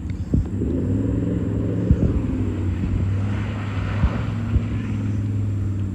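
Jeep Grand Cherokee engine and exhaust running steadily with a low drone, with a few sharp knocks from the vehicle over rough ground.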